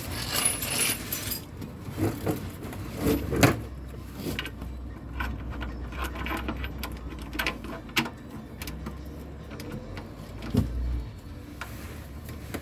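Metal hand tools and sockets clinking and clattering as they are handled and sorted, with a rustle at the start and a low rumble underneath for several seconds.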